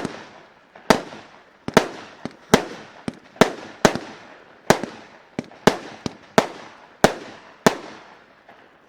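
Weco consumer firework battery firing its shots in sequence: a sharp bang roughly once a second, with smaller pops in between, each bang trailing off into a fading echo.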